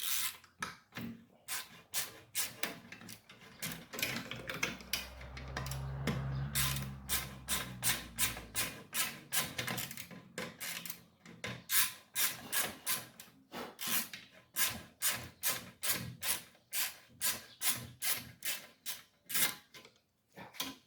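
Ratchet wrench clicking in a steady run of short, sharp clicks, about two to three a second, as a small bolt on a Briggs & Stratton mower engine is backed out. A low hum sounds for a few seconds early in the run.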